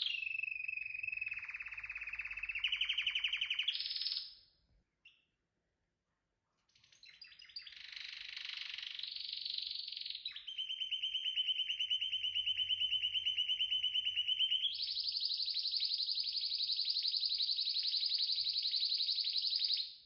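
Domestic canary singing in trills and rapid rolls. The song breaks off for a pause of two to three seconds about four seconds in, then resumes with a long rapid roll that jumps to a higher pitch about two-thirds of the way through and holds until it stops near the end.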